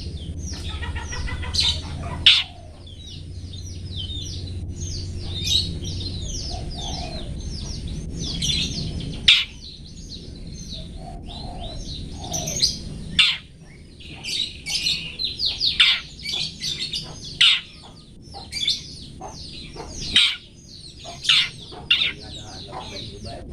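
Long-tailed shrike (cendet) singing a rapid, varied string of chirps and short downward-sweeping notes. A low hum runs under the song for the first half.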